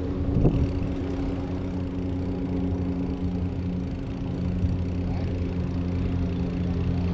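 An engine running steadily with a low hum, and a brief louder wavering sound about half a second in.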